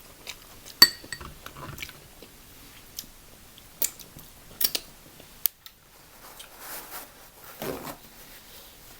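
A person chewing and biting crab close to the microphone, with scattered sharp clicks and cracks.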